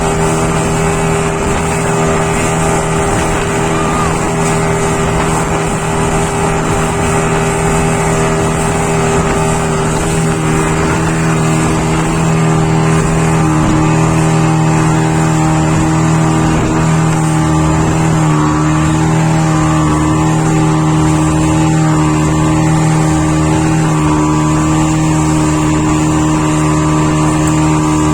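Motorboat engine running steadily at speed, its pitch stepping up slightly twice partway through.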